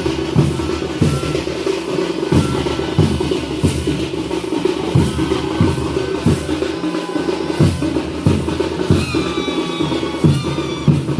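Dhol and tasha drums playing together: heavy dhol beats about every two-thirds of a second over a dense, continuous rattle of tasha strokes. A wavering high melodic tone joins briefly about nine seconds in.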